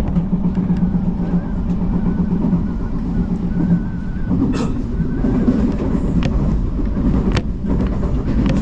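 Odakyu Line electric commuter train running along the rails, a steady low rumble and hum with a faint high whine for a moment, and a few sharp wheel clacks over rail joints in the second half.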